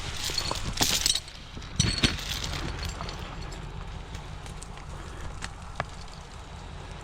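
Icy snow crunching and cracking in two loud bursts in the first two seconds, then fainter scattered crackles over a steady low rumble.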